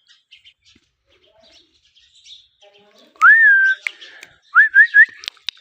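Indian ringneck parakeet whistling: after a few seconds of near quiet, one clean upward-swooping whistle held briefly, then three short rising whistles in quick succession.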